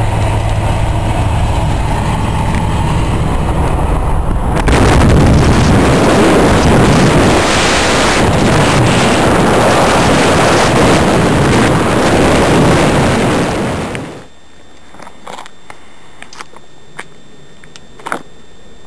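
Interior sound of a 1960 Chevy pickup driving, its engine running with a steady hum. About four and a half seconds in, a loud even rushing of road and wind noise comes over it, and it cuts off suddenly near the end to a quiet background with a few clicks.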